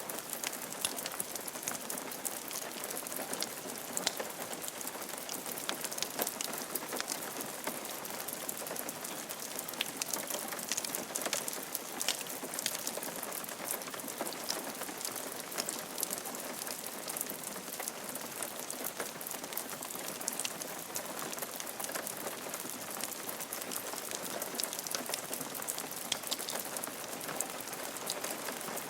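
Steady rain falling on a roof, with many individual drops tapping sharply through an even wash of rain noise.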